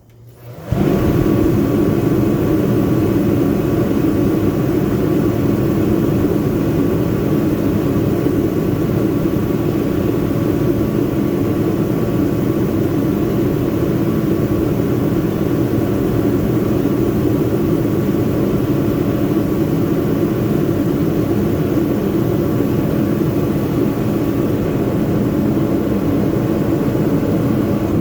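Remington 175,000 BTU kerosene/diesel forced-air heater running steadily, with its fan and burner on and a faint hum over the steady rush; it starts suddenly just under a second in and is shut off near the end, dying away over about a second. It is running after a repair of an E1 no-ignition fault and a fuel leak.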